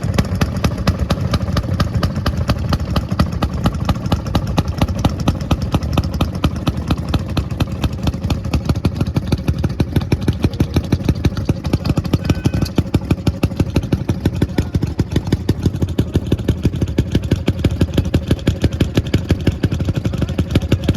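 An engine idling with a steady, even beat of several pulses a second.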